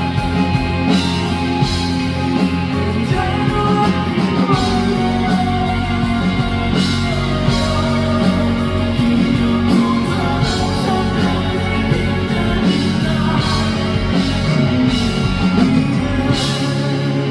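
Live rock band music with electric guitar and drum hits and some singing, recorded from the audience.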